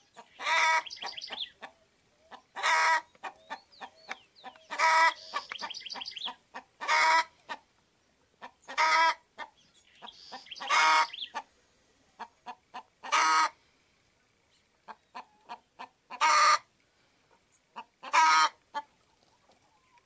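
A loud, short bird call repeated about every two seconds, with fainter quick chirps and clicks between the calls.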